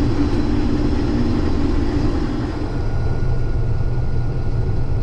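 Case IH 2388 combine running steadily, a low engine and machinery rumble, with a higher hum that fades out about halfway through.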